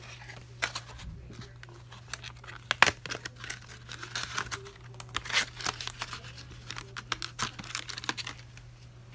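Irregular crinkling and tearing of plastic, with many small clicks and taps, over a steady low hum.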